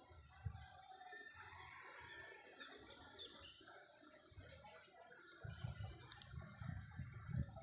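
A small bird chirping: three quick runs of rapid high-pitched chirps a few seconds apart. Low rumbling thuds come in during the second half.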